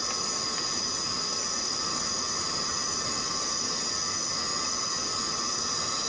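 Steady rain falling in a tropical rainforest, with a continuous insect chorus of several high-pitched drones running over the rain's noise.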